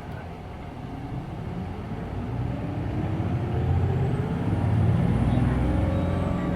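Hino Blue Ribbon City Hybrid diesel-electric hybrid city bus pulling away from a stop, heard from inside the cabin. The engine and drive rise steadily in pitch and loudness as it accelerates.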